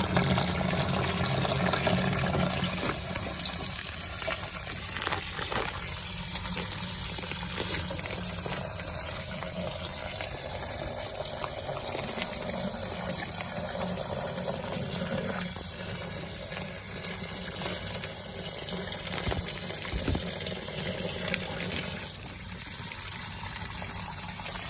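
Liquid pouring steadily into a bucket of water, mixing a limescale-remover solution.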